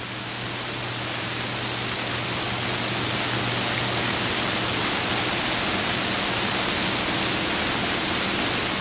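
Hot skillet sizzling steadily: a dense hiss that builds over the first couple of seconds and then holds, with a low steady hum underneath.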